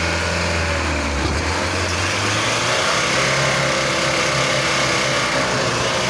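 Light diesel truck engine running steadily under load on a muddy off-road track; its pitch shifts about a second in, then holds.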